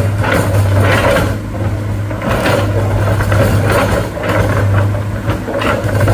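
A heavy vehicle's diesel engine running steadily, a constant low hum with noise swelling and easing about once a second.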